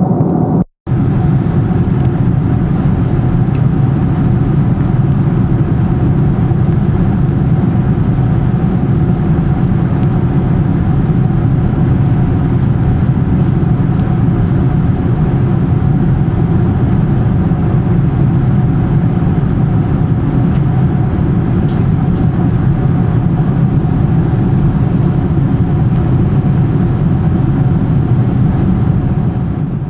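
Steady cabin noise of a Boeing 747-400 airliner in cruise flight: a low, even rumble of engines and airflow with a faint steady hum above it. It cuts out for an instant about a second in.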